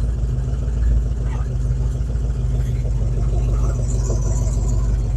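1961 Chevy Biscayne's V8, which the driver takes for a little 283, idling steadily just after starting, with a deep even rumble.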